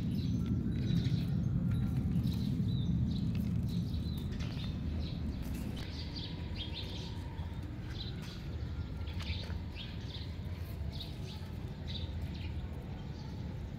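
Small birds chirping over a steady low outdoor rumble, the rumble louder in the first few seconds.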